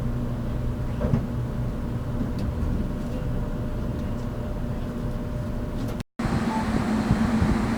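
Interior sound of a JR Kyushu 783 series electric train's motor car: a steady low hum with rail and body noise. About six seconds in, the sound cuts out for a moment and comes back louder and hissier.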